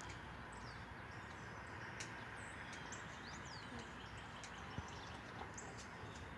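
Steady outdoor background noise with faint, scattered chirps and short whistles of small birds.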